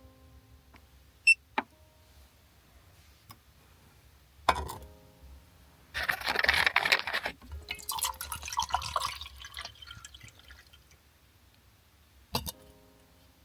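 Water poured into a vessel: a few seconds of splashing that turns into a gurgling fill, with clicks and a knock of handling before it and another click near the end.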